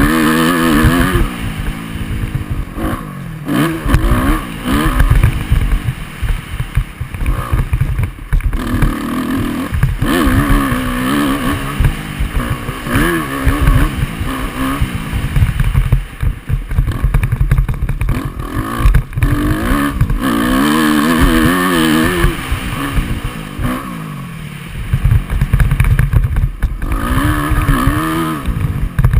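Motocross dirt bike engine revving up and down repeatedly as it is ridden, its pitch rising and falling through the throttle and gear changes, over a rough low rumble.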